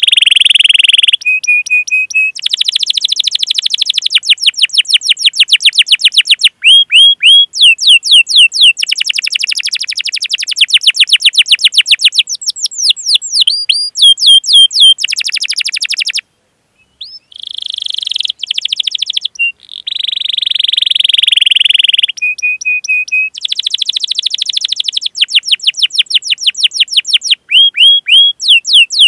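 Domestic canary singing a long, loud song: buzzing rolls and fast trills of rapidly repeated notes alternating with runs of sharp sweeping 'cuit' chirps, with a short pause about 16 seconds in.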